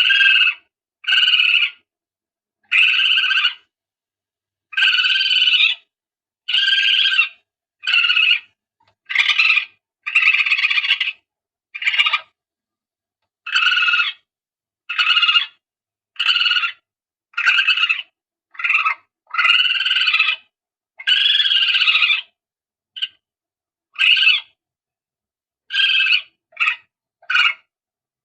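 Palm civet calls played as a hunting lure: short, sharp calls repeated about every second or so, some clipped shorter, with dead silence between them, as in an edited looped recording.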